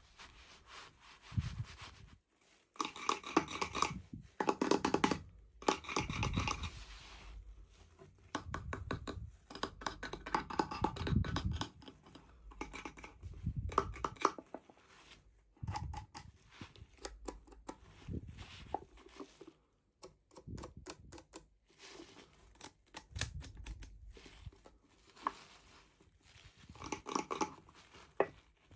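Toy packaging being handled and opened by hand: irregular rustling, scraping and tearing, with many small clicks and a few light knocks.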